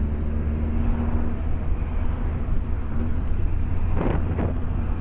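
BMW K1200S inline-four engine running steadily under way, with wind and road noise, heard through a microphone inside the rider's helmet. A short rushing swell comes about four seconds in.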